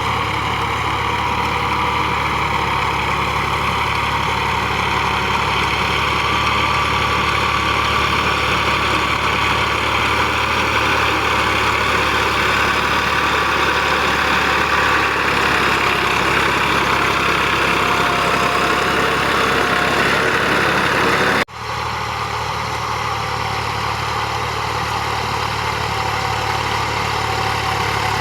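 Tractor engine idling steadily. The sound drops out for an instant about three-quarters of the way through, then the same steady running resumes.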